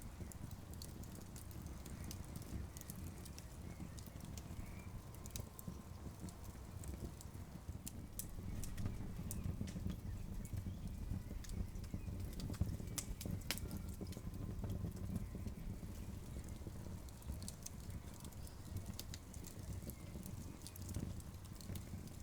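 Wood campfire crackling: scattered sharp pops and snaps, a few louder ones in the middle, over a low steady rumble.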